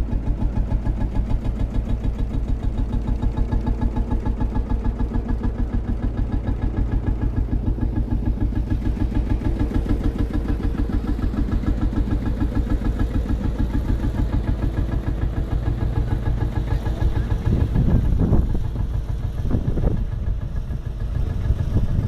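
Old vintage engine idling with a steady, even beat, briefly louder about eighteen seconds in.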